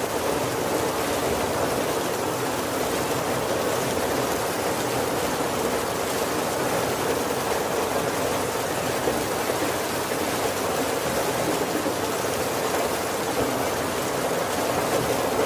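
Heavy rain falling steadily on the roof of a wooden carriage, an even hiss with no separate drops or thunder standing out.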